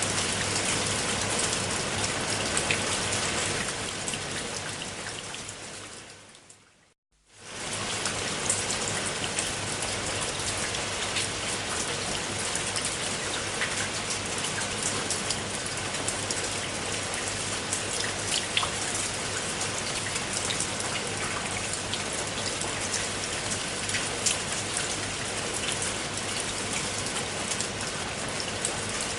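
Steady rain falling, a dense patter of drops with occasional sharper drips. About four seconds in it fades away to silence for a moment around seven seconds, then swells back up within a second.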